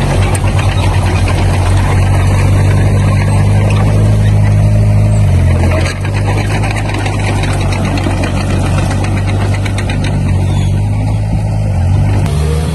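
Heavy-equipment diesel engine running steadily, its note changing about five seconds in and again near the end.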